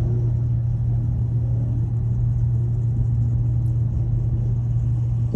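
Car engine running with a steady, deep low drone.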